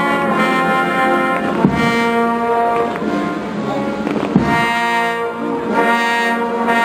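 Military brass band playing a slow funeral march: held brass chords, with a bass drum struck about every two and a half seconds.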